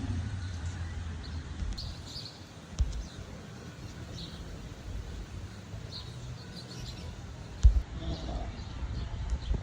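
Outdoor ambience: small birds chirping over a steady low rumble, with a thump about three seconds in and a louder, sharper thump near the end.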